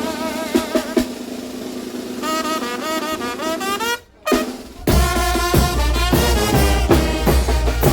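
Brass band playing a son de chinelo: trumpets and saxophones hold notes with a wavering vibrato. After a short break about four seconds in, the whole band comes back with a heavy drum beat under the horns.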